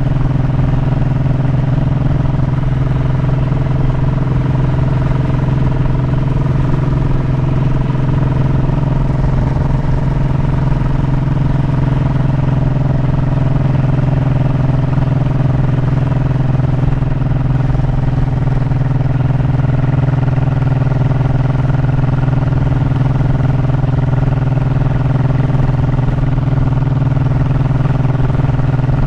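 Honda motorcycle engine running at a steady speed while riding, its engine note holding even, over a rough low rumble.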